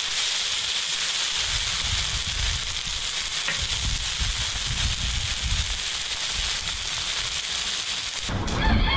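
Sliced mushrooms sizzling in a hot black pan, a steady hiss as they are turned with a perforated skimmer. Near the end the sizzle cuts off and music starts.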